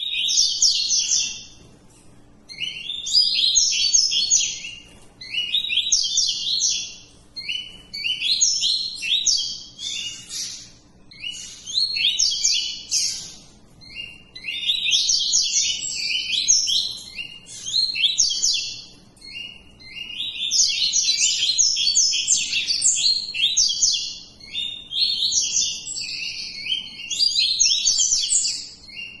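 A male double-collared seedeater (coleiro) singing, repeating fast, bright song phrases of rapid notes, each phrase a second or two long, with short pauses between them.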